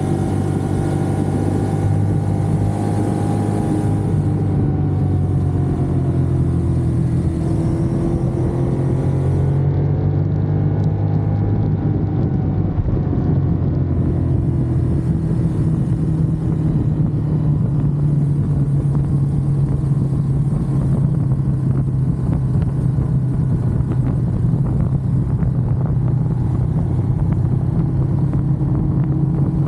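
Ducati Monster's V-twin engine running under way at a steady pace, its note dipping and rising gently a few times with small changes in throttle.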